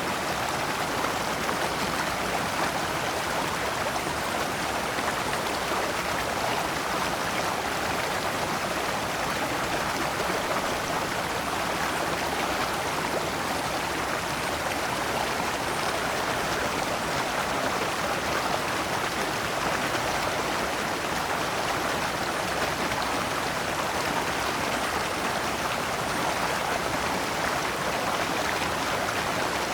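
Shallow rocky stream flowing steadily over large stones, water splashing in small cascades.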